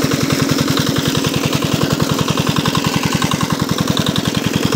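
4 HP single-cylinder diesel engine driving a 3-inch water pump, running steadily at an even beat of about twelve pulses a second.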